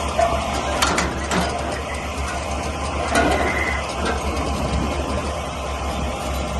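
Heavy diesel engine of a SHANTUI bulldozer running steadily with a deep, even rumble. A few sharp metallic knocks come about one second and three seconds in.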